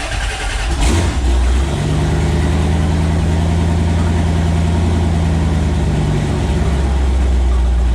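Twin-turbo Ford small-block V8 just started and idling steadily, with a slight rise in revs about a second in; the idle settles a little lower about six seconds in.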